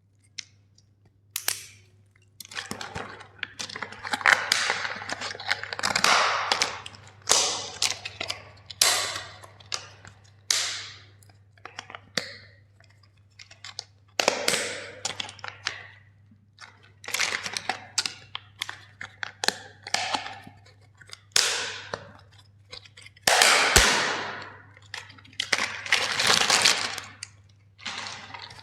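Plastic toys being crushed: a long run of sharp cracks and crunches of breaking plastic, each fading within about a second, starting about a second and a half in. A faint steady low hum runs underneath.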